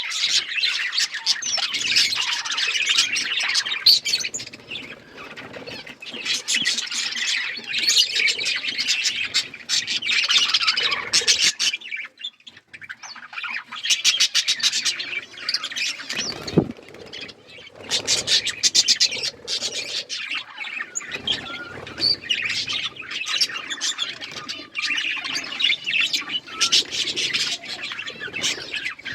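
Budgerigars chattering and squawking continuously, with a short lull about twelve seconds in.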